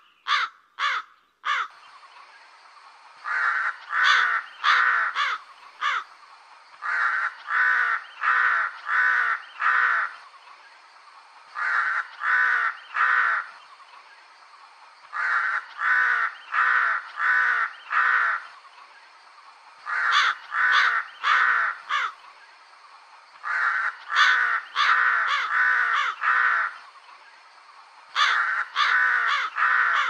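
Crow cawing in bouts of three to six harsh caws, about two a second, with pauses of a second or two between bouts, over a faint steady hiss.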